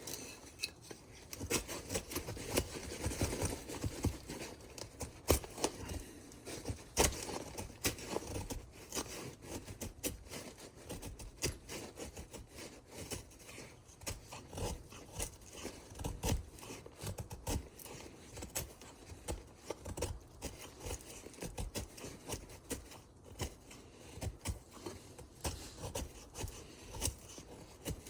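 Knife blade shaving thin curls off a stick of dry wood to make feather sticks: repeated short scraping strokes.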